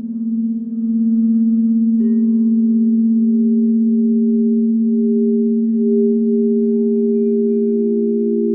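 Crystal singing bowls sounding together as several steady, overlapping tones with a slow wavering beat; another bowl comes in about two seconds in and another near the end.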